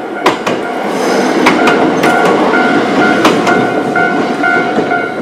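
A Choshi Electric Railway electric train passing over a Japanese level crossing: running noise with sharp wheel clacks over the rail joints. The crossing's warning bell keeps ringing its repeating ding under the train.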